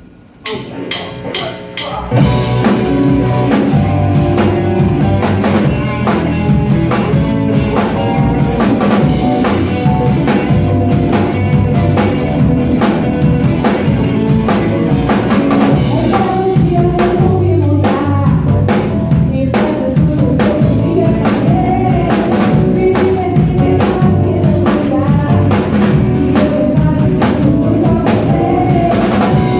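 Live rock band starting a song: a few sharp stick clicks count in, then about two seconds in the full band comes in together, with drum kit driving a steady beat under bass and pitched instruments.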